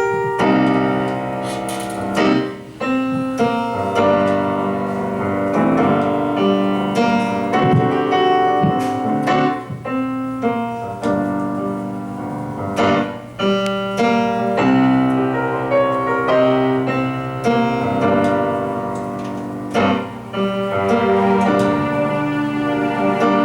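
Piano playing held chords that change every second or so, with no voice over it.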